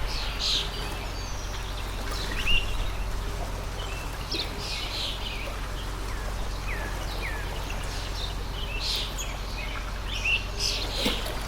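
A water stream flowing steadily, with small birds chirping and giving short whistled calls throughout.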